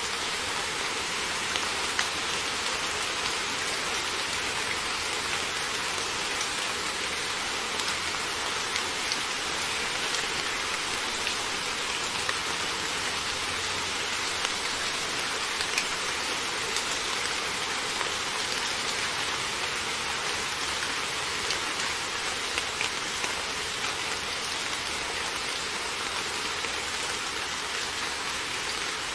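Heavy rain falling steadily: a dense, even hiss with many small sharp drop ticks scattered through it.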